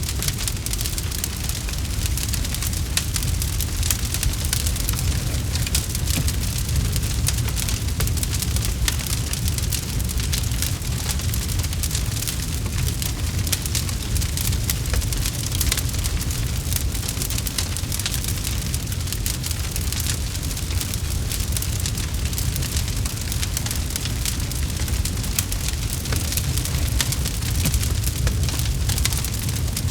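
Campfire crackling: many small, sharp pops and snaps over a steady low rumble of burning.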